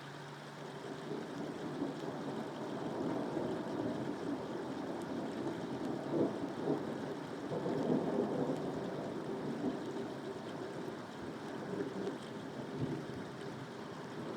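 Steady rain with a long roll of thunder that builds from about a second in, is loudest around the middle, and dies away near the end.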